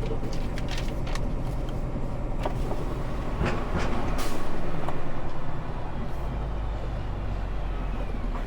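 Semi truck's engine running with road and cab noise from inside the cab, a steady low hum with a few light rattles, swelling louder for a stretch just past the middle.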